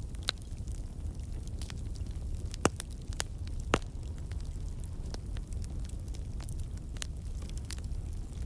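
Campfire of burning logs crackling, with sharp irregular pops from the wood over a steady low rumble of the flames; two louder pops come about a third and almost halfway through.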